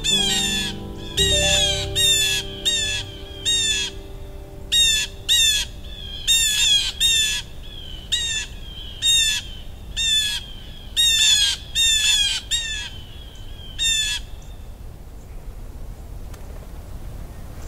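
A bird giving short, harsh calls over and over, one after another in uneven clusters, which stop about fourteen seconds in. Closing music fades out under the first few calls.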